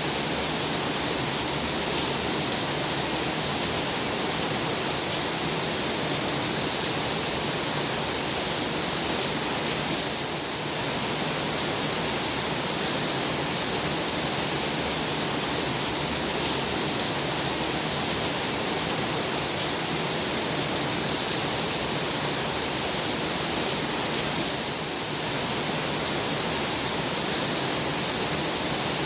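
Heavy rain falling steadily, a dense even hiss that eases briefly twice, about ten seconds in and again near the end.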